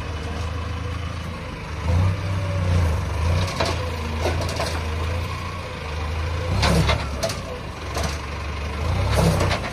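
Tractor engine running steadily, picking up briefly a few times, with several sharp knocks.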